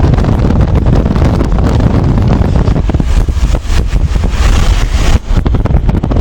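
Loud, uneven wind buffeting on the microphone, a low rumble with hiss and no clear tones.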